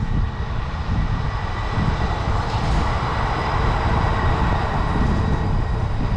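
Wind buffeting the microphone of a bicycle-mounted action camera while riding, with a steady rush of road and traffic noise that swells in the middle.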